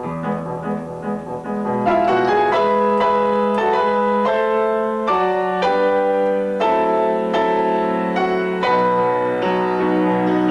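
Live classical piece played on a keyboard instrument: a moving melody over long held bass notes, with the notes changing about every half second.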